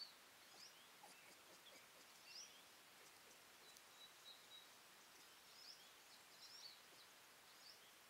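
Faint distant birdsong: scattered short high chirps, with one thin held note about halfway through, over a steady hiss.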